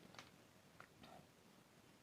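Near silence with a few faint clicks of quiet chewing while eating noodles.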